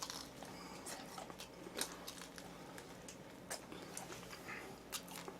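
Faint chewing of food, with scattered small crunches and clicks.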